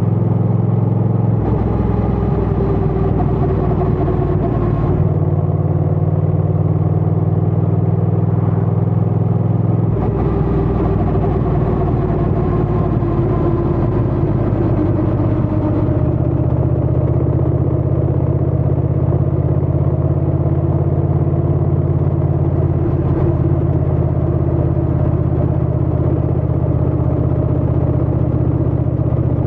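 Honda Rebel 1100 DCT motorcycle's parallel-twin engine and exhaust running steadily while riding, its pitch drifting slowly. The low part of the note changes abruptly a few times along the way.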